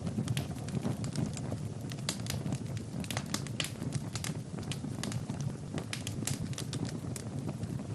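Fire burning in a fireplace, crackling with irregular sharp pops over a steady low rush of flame.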